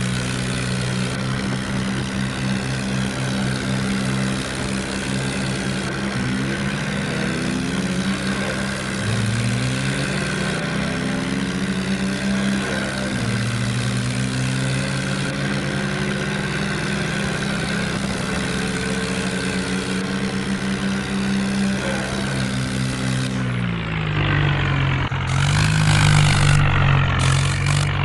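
Kubota tractor's diesel engine running steadily, its note shifting a few times and dropping lower near the end.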